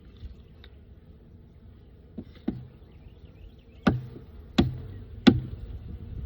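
Hive tool knocking against the wooden frames and box of a beehive as a frame is worked loose: five sharp knocks in the second half, roughly one every half second to second.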